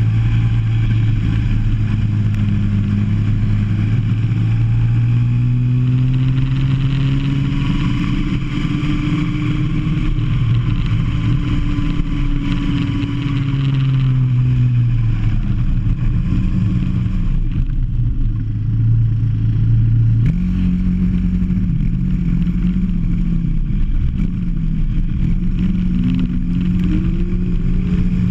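Go-kart engine heard from an onboard microphone, revving up and down as the kart accelerates and slows through the lap, with its pitch jumping sharply upward about two-thirds of the way through.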